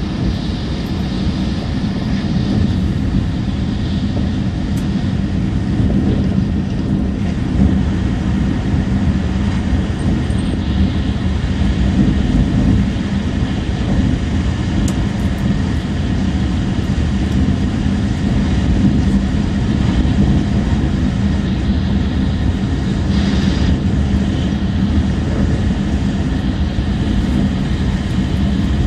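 E6 series Shinkansen bullet train running at speed, heard from inside the passenger cabin: a steady low rumble with a constant hum, and a brief rise of hiss about three-quarters of the way through.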